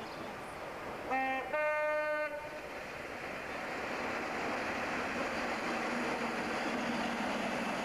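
InterCity 125 HST (Class 43 power car) sounding its two-tone horn about a second in: one note, then a higher one, together lasting just over a second. The train's running noise then builds into a steady rush as it passes close by.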